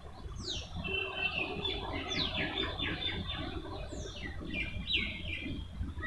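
Birds chirping: sharp falling calls every second or so, mixed with shorter level chirps, over a low rumble.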